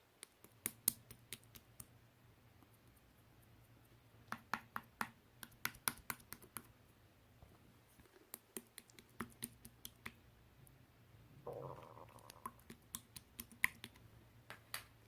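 Irregular sharp clicks and taps, some in quick clusters, over a faint steady low hum, with a brief rustle about eleven and a half seconds in.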